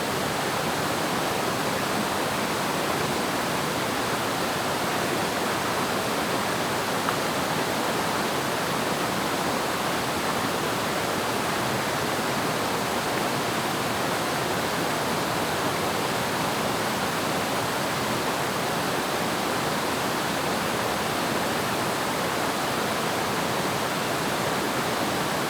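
Waterfall: falling water making a steady, even rush of noise with no pauses.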